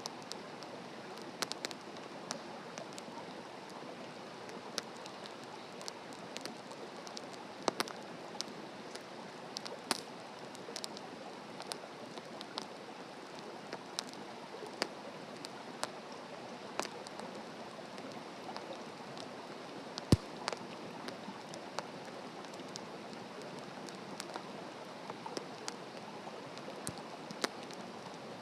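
Wood fire burning in a fire stand: a steady hiss with frequent sharp crackles and pops, the loudest pop about twenty seconds in.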